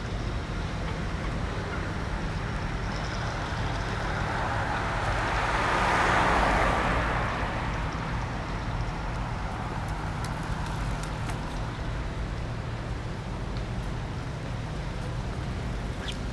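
Road traffic noise with a steady low hum throughout; one vehicle passes close, swelling to a peak about six seconds in and fading away.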